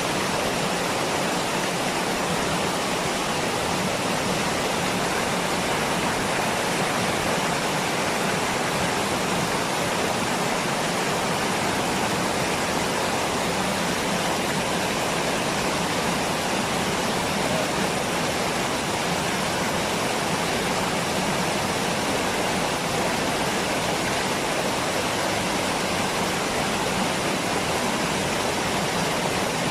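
Waterfall: falling water rushing steadily, an even, unbroken hiss.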